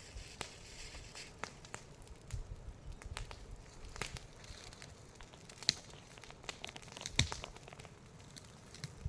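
Dry twigs and leaves crackling and snapping in irregular clicks, with two sharper cracks a little over five and seven seconds in.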